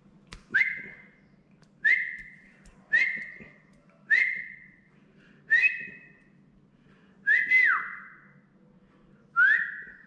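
Caged pet bird whistling a string of short, loud notes, about one a second, each a quick upward slide into a steady high note; one note near the end of the run is doubled and finishes with a downward slide.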